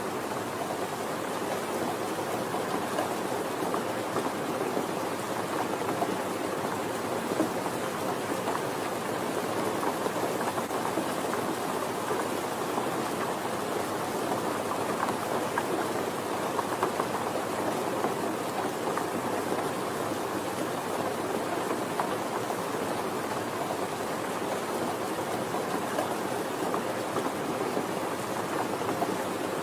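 Steady rainfall, an even hiss with the patter of many drops, holding level without change.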